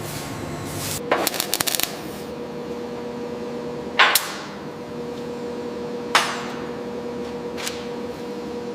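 Factory machinery: a steady machine hum, a quick run of clicks about a second in, then two sharp impacts about two seconds apart, with a fainter knock near the end.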